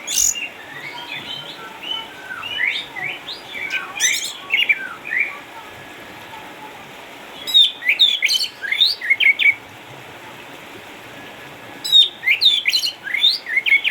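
Orange-headed thrush singing: four phrases of quick, varied whistled notes, each a second or two long, with pauses of a couple of seconds between them.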